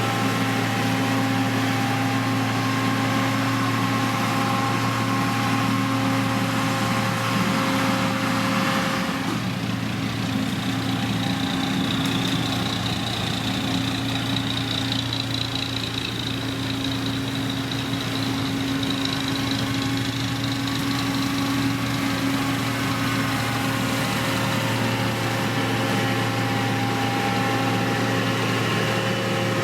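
Diesel engine of a heavy road-construction machine running steadily, its tone shifting about a third of the way in, with a faint high whine through the middle.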